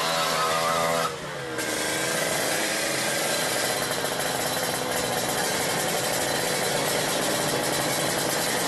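Tuned Kawasaki Ninja motorcycle engine running and being revved, its pitch wavering up and down, with a short drop in revs about a second in.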